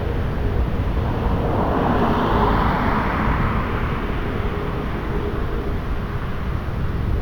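Thunderstorm: wind buffeting the microphone with a heavy low rumble over steady rain. A rushing swell rises and fades about two to three seconds in.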